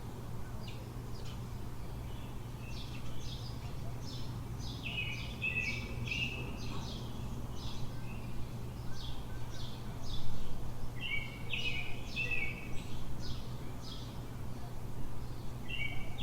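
Birds chirping in quick repeated bursts, in two busier runs, over a steady low city hum.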